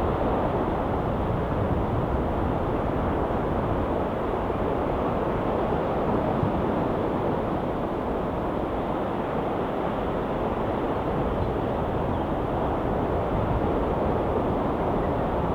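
Ocean surf: a constant deep rushing with no separate wave crashes standing out.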